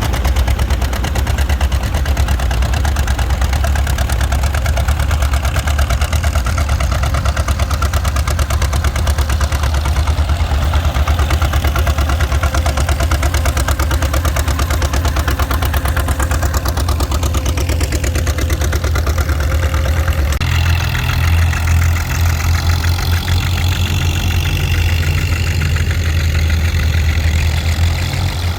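Farm tractor engine running steadily close by, with a fast, even firing beat; about 20 seconds in its sound changes abruptly to a heavier, louder note.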